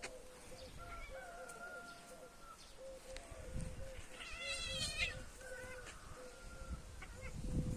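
A cat meows once, about four seconds in, over faint steady tones, with low thuds from the animals or from handling.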